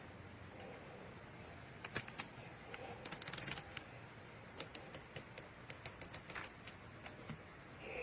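Light, sharp mechanical clicks: a few single clicks, then a quick rattle of clicks, then a run of evenly spaced clicks, about five a second.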